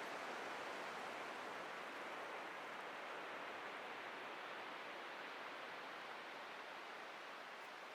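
Atlantic surf washing on a beach, a steady hiss of breaking water that slowly fades.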